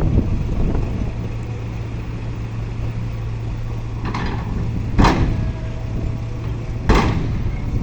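Heavy diesel machinery of dump-truck loading running with a steady low drone, with two sharp bangs about two seconds apart in the second half and a softer knock just before them.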